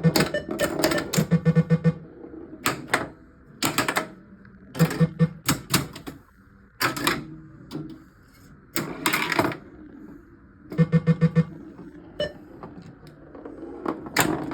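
1979 Gottlieb Pinball Pool pinball machine running: sharp mechanical clacks at irregular intervals, with three short bursts of rapid, low electronic beeps from its sound board.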